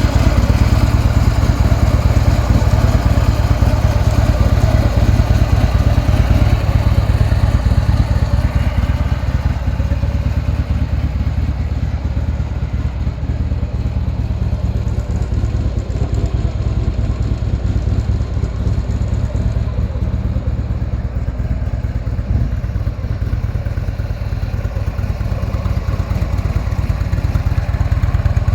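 Harley-Davidson V-twin motorcycle engine running steadily with a fast, even low pulse; it eases off slightly after about ten seconds and picks up again near the end.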